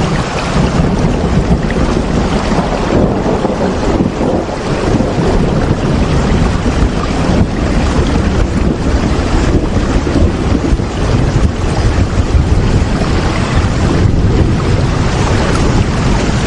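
Heavy rain with wind: a dense, steady rushing noise with a strong low rumble.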